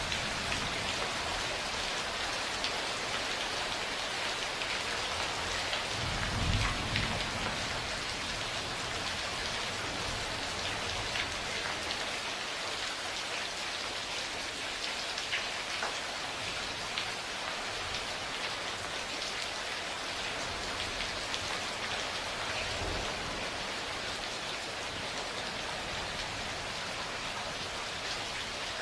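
Steady rain falling, with scattered drop ticks. A low rumble of thunder comes about six seconds in, and a fainter one later on.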